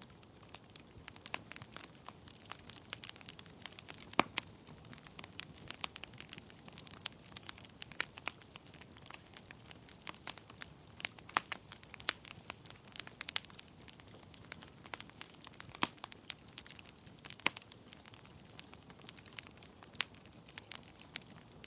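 Wood fire in a fireplace crackling: irregular sharp pops and snaps from burning logs over a soft steady hiss of the flames.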